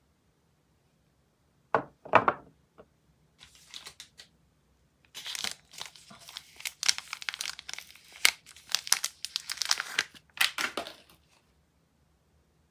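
Soap packaging being handled: a few short crinkles, then several seconds of continuous crinkling and tearing as a soap bar's wrapper is torn open and crumpled.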